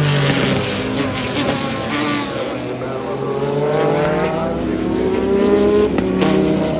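Several historic IMSA GTP prototype race cars going by at racing speed, more than one engine heard at once. The engine pitch drops sharply right at the start and climbs again through the middle as the cars change speed.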